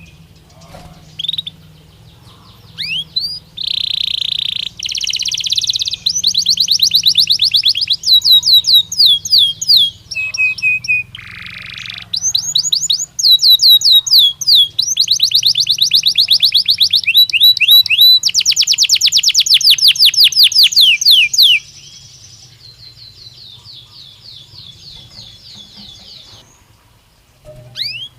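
Belgian canary singing a long song built from rapid trills: phrases of fast repeated notes, each held for a second or two before switching to a new trill, with a softer, quieter trill near the end.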